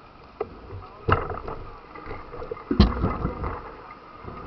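Water splashing and sloshing, with heavy thumps about a second in and again near three seconds.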